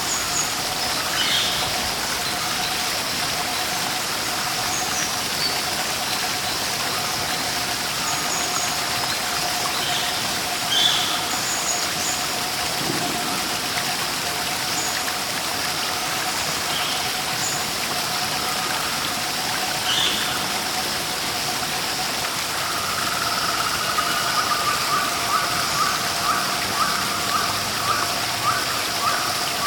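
Steady rush of a waterfall or stream, with short, high bird chirps scattered over it. From about two-thirds of the way in, a rapid string of repeated calls joins it.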